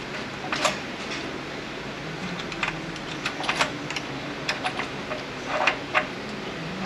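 Irregular light clicks and knocks of metal transmission parts and hand tools being handled while trying to free a part from an 8L90 automatic transmission, over a steady background hum. The sharpest knocks come about two-thirds of a second in and again near the end.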